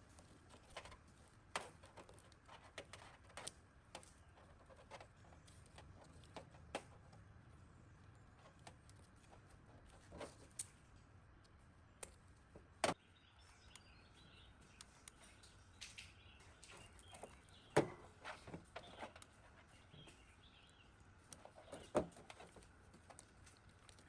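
Small metal parts and hand tools handled on a workbench: scattered light clicks and taps, with sharper knocks about 13, 18 and 22 seconds in.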